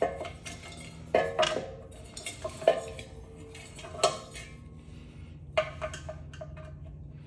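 Metal clanking and clinking as ceiling fan parts and tools are handled and set down: a string of sharp knocks, several ringing briefly, the loudest about a second and almost three seconds in.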